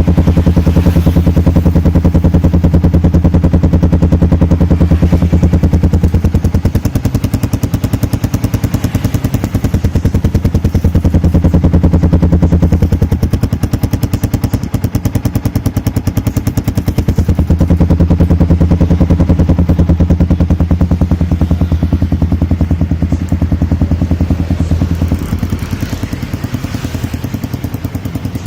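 Yamaha 155 cc single-cylinder motorcycle with an aftermarket racing exhaust running loudly at a steady idle, its exhaust giving a fast, even train of sharp pulses. The level and note dip slightly a few times, as the revs shift a little.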